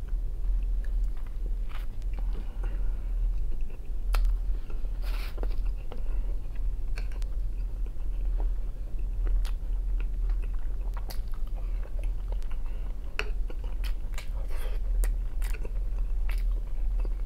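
Close-miked chewing and biting of fried potatoes and bread, with scattered sharp clicks of a metal fork against a china plate, over a steady low hum.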